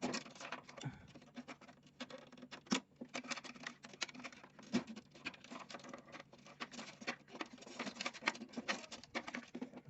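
Plastic parts of an Epson printer being handled during disassembly: a dense, irregular run of clicks, taps and scraping as the casing and scanner unit are worked loose by hand.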